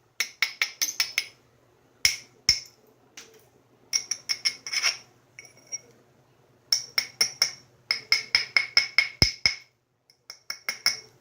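Flint being knapped: quick runs of light, ringing clicks as a tool works along the edge of the flint piece, with a few single heavier knocks between them.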